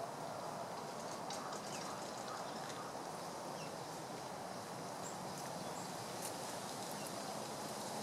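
A few faint, short, high bird calls scattered over a steady background hum.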